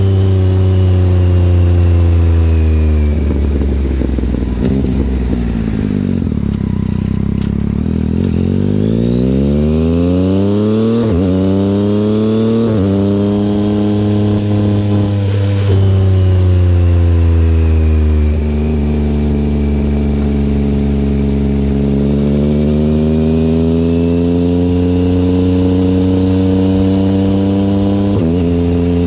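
2022 Yamaha XSR900's inline-three engine through an aftermarket Kelpi exhaust while being ridden. A few seconds in it drops back off the throttle with a rough rumble. It then revs up with rising pitch, breaking into sudden pitch drops at two quick upshifts, and cruises steadily. It rises again slowly and changes gear once more near the end.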